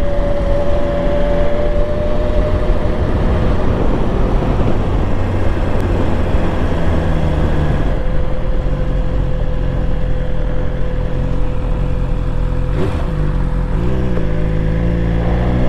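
BMW S1000XR motorcycle's inline-four engine running steadily while riding, with wind noise on the microphone.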